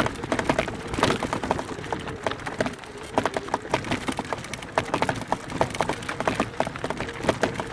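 Mountain bike rattling over a rough forest trail: a dense, irregular run of clicks, knocks and crunches from the frame, chain and tyres on rocks, roots and dry leaves.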